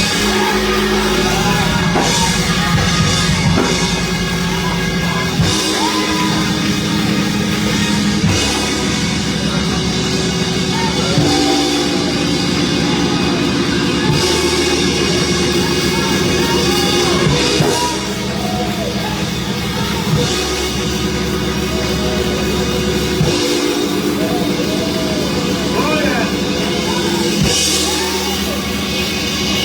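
Live church band music: held chords that change every few seconds over a drum kit, played loud.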